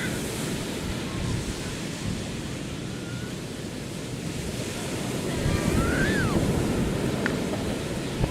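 Ocean surf washing on the beach, with wind buffeting the microphone; the surf grows louder about two-thirds of the way through. A few faint, short high cries come through now and then.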